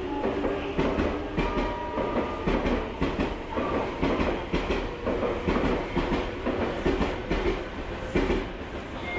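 Electric commuter train running on the rails, its wheels clicking irregularly over rail joints over a steady low rumble.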